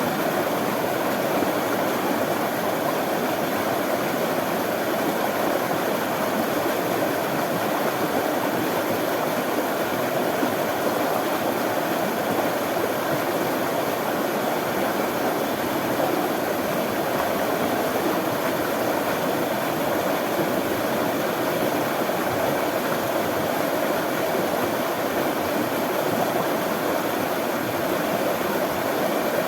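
Running water flowing and rushing steadily, an even hiss with no change in level.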